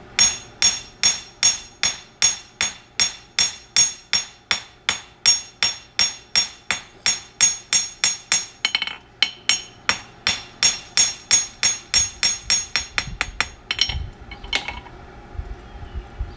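Farrier's hammer striking a horseshoe on the anvil at about three blows a second, each blow ringing, drawing out a toe clip; the hammering stops near the end.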